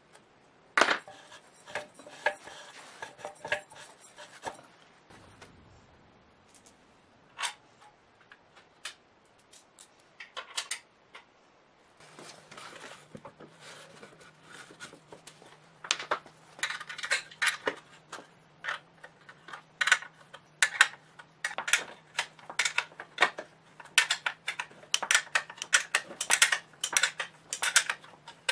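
Metal parts and hand tools clinking and tapping against each other in a series of sharp clicks, sparse at first and coming thick and fast in the second half. A faint steady low hum starts about halfway through.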